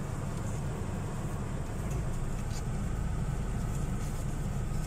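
Car engine idling steadily while the car stands at a gate, heard from inside the cabin as a low rumble.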